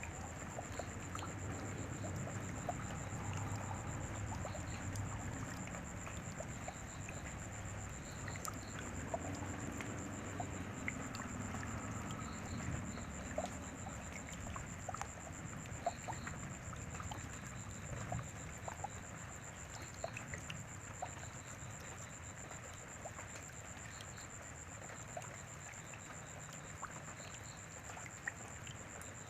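Rain falling: an even hiss of rainfall with scattered individual drops tapping close by. A steady, thin, high-pitched tone sounds over it.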